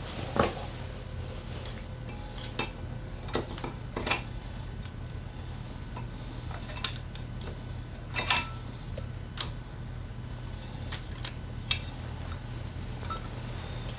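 Metal hand tools and small engine parts clinking and clicking in scattered, irregular knocks during hands-on work on a scooter engine, the sharpest clinks about half a second in, around four seconds in and around eight seconds in, over a steady low hum.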